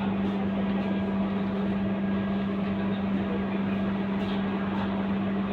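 Scania K230UB city bus's five-cylinder diesel engine running at a steady, unchanging speed, with a constant low hum.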